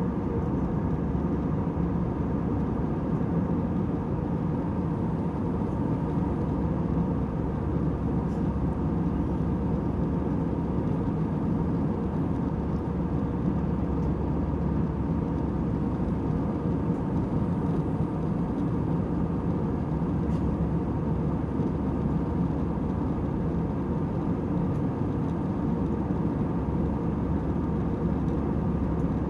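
Airliner cabin noise in flight: a steady low rushing hum of the jet engines and airflow, with faint steady tones in it and no change in level.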